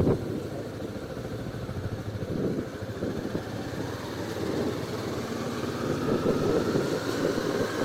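Motorcycle engine running at low speed, with a faint whine that rises in pitch over the last couple of seconds.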